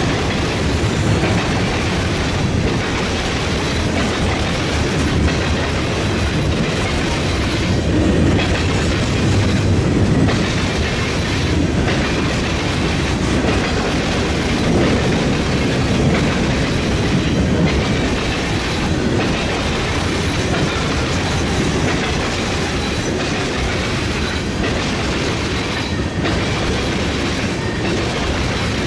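Freight train cars rolling over a railroad diamond, the wheels clattering steadily across the crossing with a continuous low rumble.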